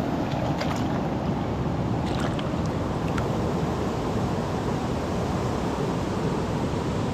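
Steady rushing wind noise buffeting the microphone outdoors, with a few faint clicks in the first three seconds.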